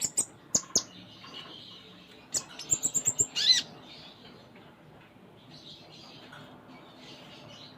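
Kolibri ninja sunbird singing in quick, high, sharp chirps: one burst at the start and another about two and a half seconds in, with a rising-and-falling note near its end. Faint twittering follows.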